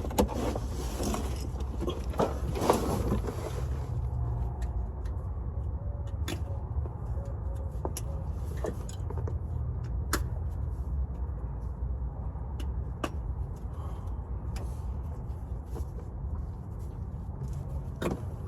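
Scattered sharp clicks and knocks of hand tools working on bolts, busier in the first few seconds, over a steady low rumble.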